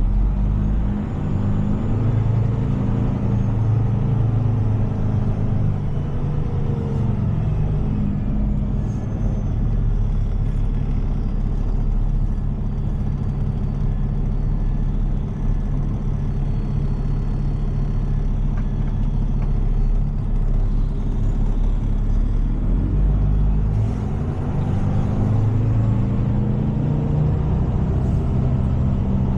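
Heavy tow truck's diesel engine running, heard from inside the cab, its pitch rising and falling as the truck creeps and maneuvers at low speed.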